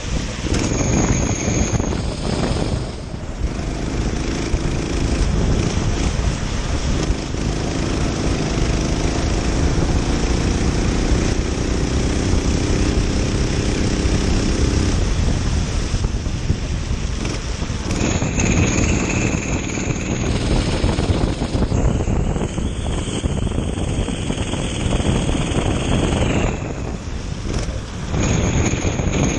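Kart engine running at race pace, buried in heavy wind rush on the onboard microphone; its note rises and falls between about four and fifteen seconds in.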